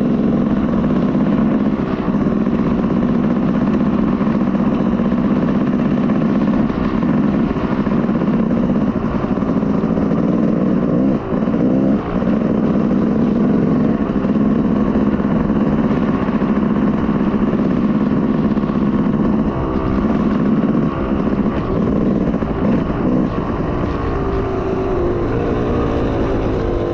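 Dirt bike engine running steadily at a low, even throttle as the bike is ridden, the note dipping and rising briefly a few times.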